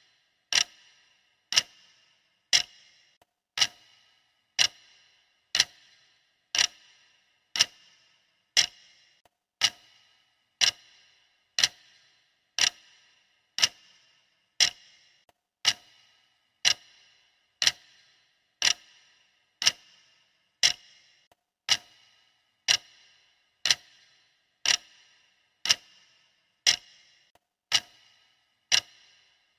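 Clock ticking steadily, one sharp tick about every second with a brief ring after each.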